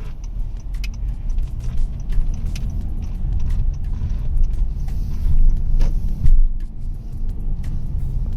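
Low, uneven rumble of a car on the road, with scattered light clicks.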